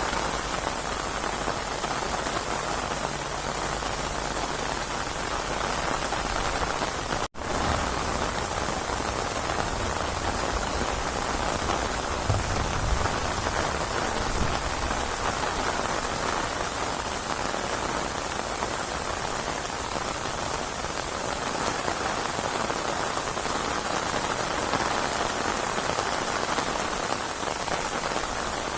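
Steady rainstorm: a dense, even hiss of rain falling on surfaces. The sound cuts out for an instant about seven seconds in.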